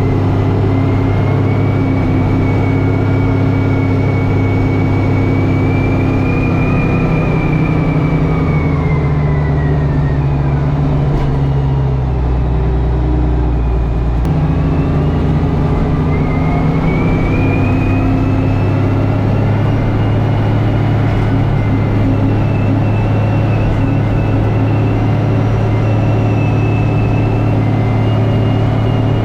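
Tractor engine working under load while plowing packed snow and ice. About a third of the way through, its pitch sags for several seconds as it lugs down, then climbs back and holds steady. A high whine above the engine falls and rises with it.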